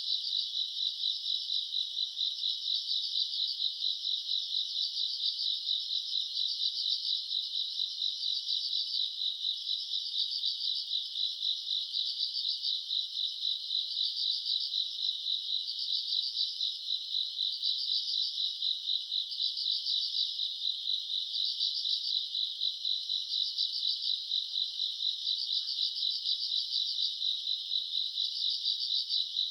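Chorus of grass insects such as crickets, high-pitched and steady: a fast, even trill with a second pulsing call that swells about every one and a half to two seconds.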